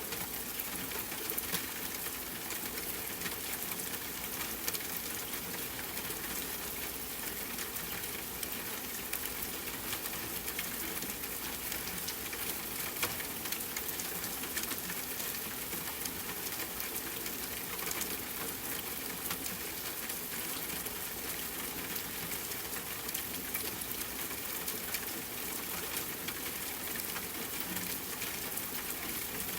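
Steady hiss of rain falling, mixed with a campfire's small pops and crackles scattered throughout.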